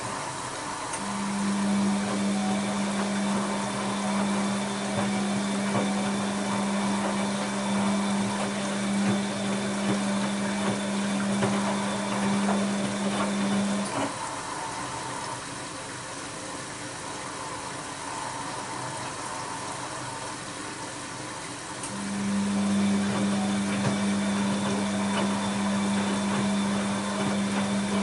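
Bosch WAB28220 front-loading washing machine partway through its quick wash cycle: the pump hums steadily over the sound of water in the drum. The hum stops about halfway through, leaving quieter water and drum sounds, then starts again a few seconds before the end.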